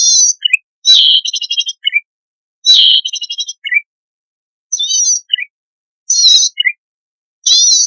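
Cisticola calling in short, buzzy, zigzagging notes every second or so. Two longer rattling trills come about one and three seconds in, and most calls end in a small lower chirp.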